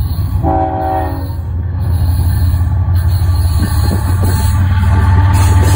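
CSX diesel freight locomotive approaching, its engine a low steady rumble that grows louder as it nears. A short horn blast sounds about half a second in.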